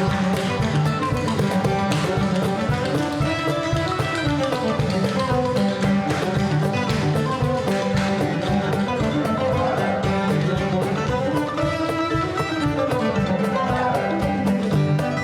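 A string band of cello, guitar and mandolin with percussion plays a lively bluegrass-style instrumental, with a steady beat of plucked and struck notes.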